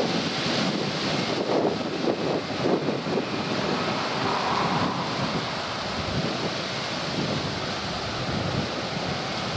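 Jet noise from a Boeing 737-800's CFM56 turbofans at take-off power, mixed with wind buffeting the microphone.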